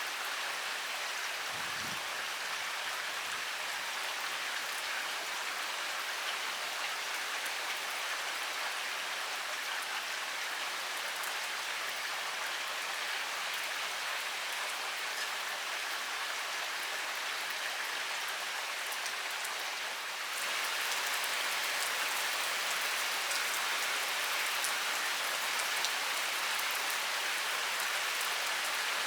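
Heavy rain falling steadily: a dense hiss with fine patter of drops. About twenty seconds in it steps up and grows louder.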